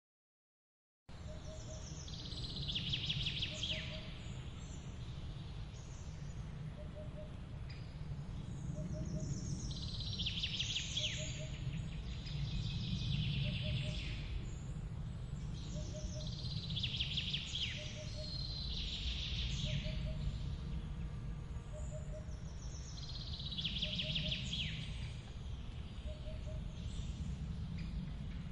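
Steady low rush of a forest waterfall, with birds singing short high phrases every few seconds and a faint short low note repeating about once a second. The sound cuts in abruptly about a second in, after dead silence.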